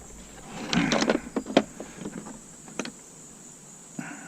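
Tool work on a stainless steel Bunn-O-Matic coffee maker being taken apart for scrap. A short whir about a second in, scattered sharp metal clicks, and another faint whir near the end.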